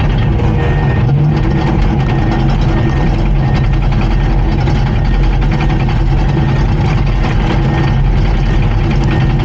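Komatsu D39PX crawler bulldozer's diesel engine running steadily at an even speed.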